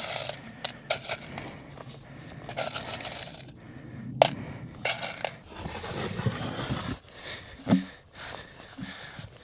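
Wooden cabin wall panels being handled and set in place: scattered knocks and scrapes, with a sharp knock about four seconds in and another near eight seconds.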